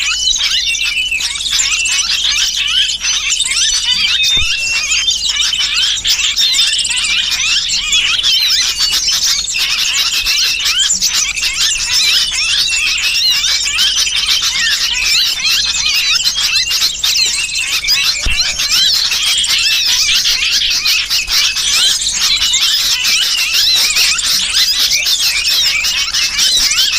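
A dense, unbroken chorus of small songbird chirps and shrill squealing calls: a bird-lure mix of sooty-headed bulbuls' distress calls, as from a trapped bird, over chattering small birds.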